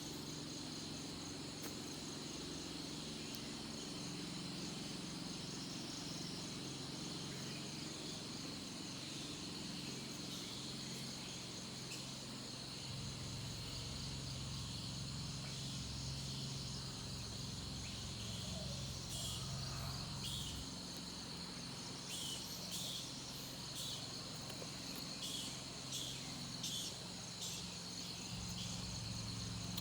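Night chorus of crickets and other insects, a steady high-pitched trill with a pulsing chirr above it. From about two-thirds of the way in, a run of short, sharp high-pitched chirps breaks in over it, several in a row.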